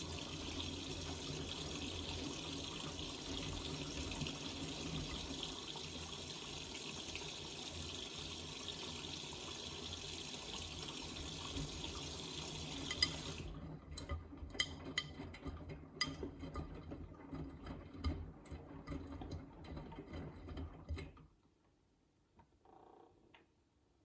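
Miele front-loading washing machine taking in water for its final rinse: a steady rush of water that cuts off abruptly about 13 seconds in as the inlet valve closes. Scattered clicks and splashes follow until the machine falls nearly silent about 21 seconds in.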